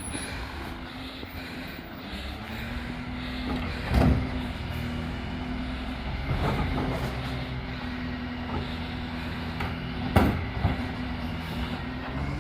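Recycling truck's engine running steadily, with two sharp knocks, one about four seconds in and a louder one about ten seconds in.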